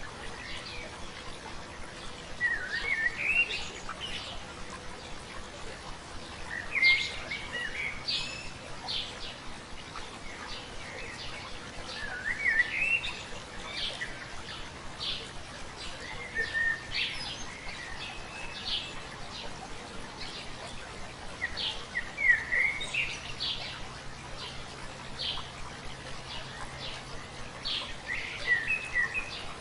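A songbird singing a short phrase of quick rising and falling chirps, repeated about every four to five seconds over a faint, steady hiss of running stream water.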